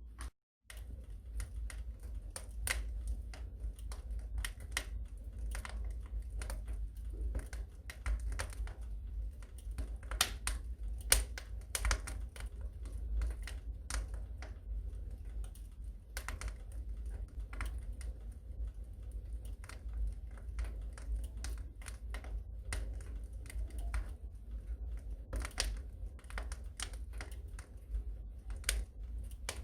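Wood fire crackling in a fireplace: irregular snaps and pops, some sharper than others, over a low steady rumble of the flames. The sound drops out briefly just after the start.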